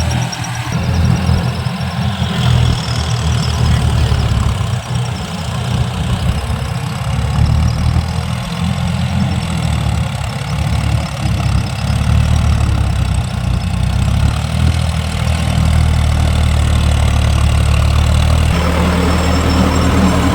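Tractor diesel engine running steadily under a low, heavy note, with a change in its sound near the end.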